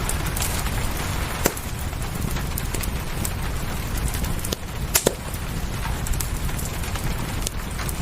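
Wood fire crackling, with scattered sharp pops and snaps (the loudest a quick pair about five seconds in) over a steady hiss of rain and a low rumble.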